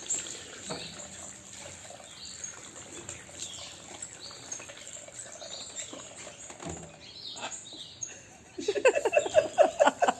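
Bird chirping with scattered short high calls. Near the end a much louder, fast run of pulsed calls starts, several pulses a second.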